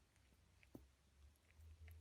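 Near silence: faint room tone with a few soft ticks and a low hum.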